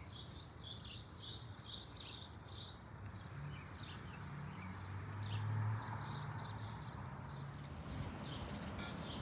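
Small birds chirping in quick short high notes, thickest at the start and again near the end. A low hum swells up past the middle and fades.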